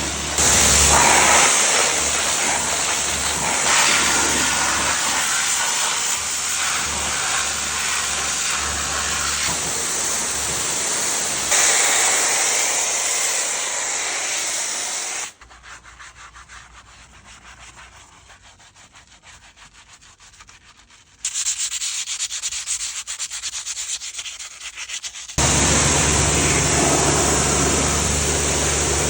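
Pressure washer spraying water onto a car wheel to blast off brake dust, a loud steady hiss. About halfway through the spray stops for several seconds, leaving a much quieter scratchy sound, then the loud spray starts again near the end.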